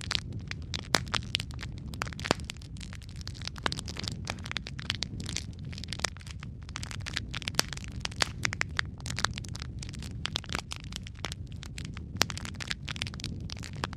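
Logs burning in a fireplace: dense, irregular crackling with frequent sharp pops over a low, steady rumble of flame.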